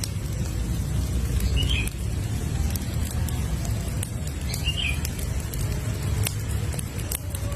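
Campfire crackling, with scattered sharp pops over a steady low rumble of burning. A short bird chirp sounds twice, about two and five seconds in.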